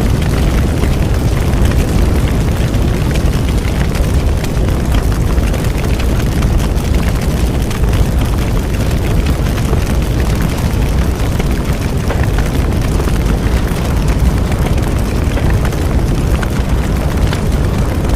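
Bonfire burning with a steady low roar and many small crackles and pops scattered through it.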